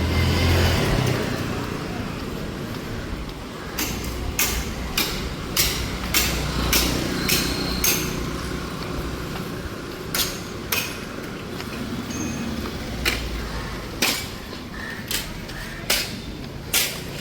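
Sharp knocks, like hammer strikes, eight in a row about 0.6 s apart, then a few more at uneven gaps, over a low rumble of street traffic.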